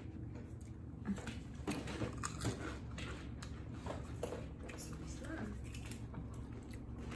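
Quiet chewing and crunching of small crispy lentil and rice snack rings, in short irregular crunches.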